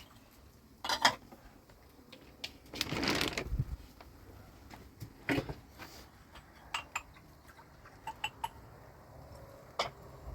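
Scattered short knocks and clicks of objects being handled, with a brief noisy scrape or rustle about three seconds in.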